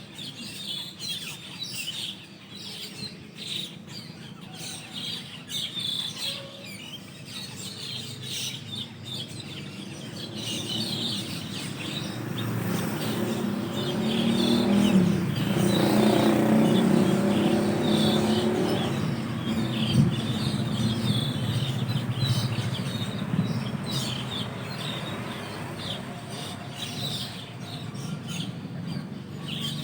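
A flock of Asian glossy starlings calling continuously with many short, high chirps. A motor vehicle passes midway, its low engine and road noise building to the loudest point and then fading.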